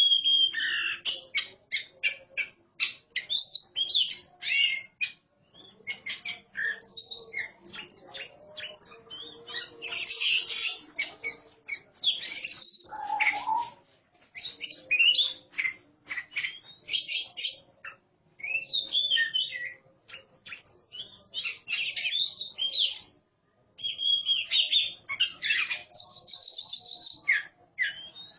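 A pair of oriental magpie-robins singing back and forth in short, rapid phrases of varied whistles, chirps and harsher notes. A long held whistle comes near the end.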